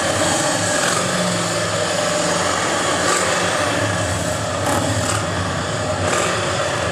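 Steady engine noise: nearby Harley-Davidson motorcycles running with a low rumble, with a distant racing car engine faintly under it.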